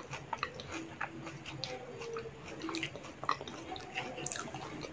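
Close-miked chewing of yogurt-filled puchkas (dahi puri): an irregular run of small wet clicks and smacks from the mouth.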